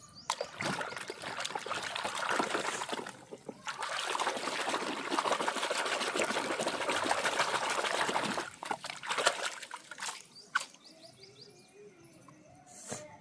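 Water running and splashing over plastic toys being washed, with a short break about three seconds in. It stops after about eight seconds, and a few light knocks follow.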